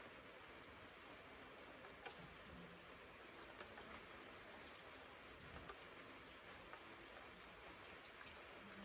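Light rain falling in eucalyptus bush: a faint, steady patter with a few sharper drip ticks now and then.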